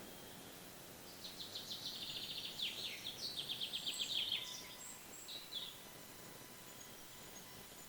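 A songbird singing a fast trilling phrase of rapidly repeated high notes, starting about a second in and lasting some three seconds, then a couple of short separate notes.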